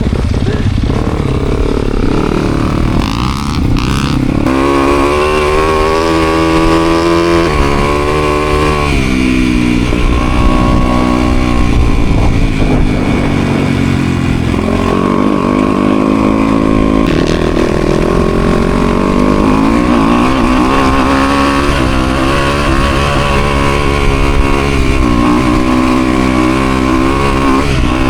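Motocross dirt bike engine being ridden hard, revving up and dropping back repeatedly as the rider accelerates and shifts.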